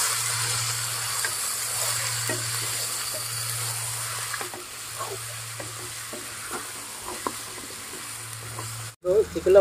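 Marinated chicken sizzling in hot oil in a metal pot as it is stirred in with a spoon. The sizzle dies down about halfway through, leaving scattered spoon scrapes and taps against the pot, and the sound cuts off suddenly near the end.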